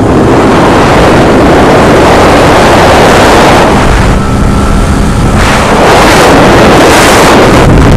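Loud wind buffeting over a helmet-mounted microphone on a moving motorcycle, drowning out the engine. It eases for a second or so around the middle, where the faint steady note of the bike's engine comes through.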